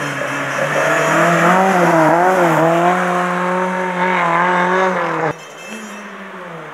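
Rally car engine running hard at high revs as the car takes a hairpin and pulls away, its pitch dipping and rising with the throttle. The sound cuts off suddenly about five seconds in, leaving a fainter engine that revs up again near the end.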